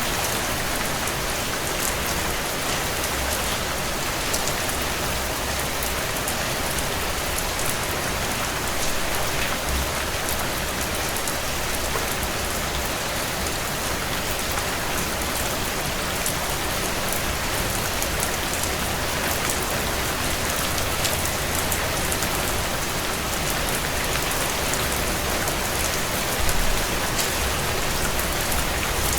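Steady heavy rain on window glass, with scattered faint crackles from a wood fire in a fireplace.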